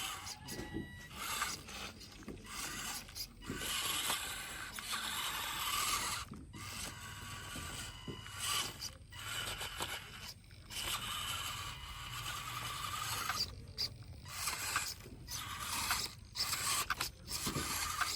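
Small geared electric motor of a remote control toy tractor whirring and grinding through its plastic gearbox, running in short spurts that stop and start again many times.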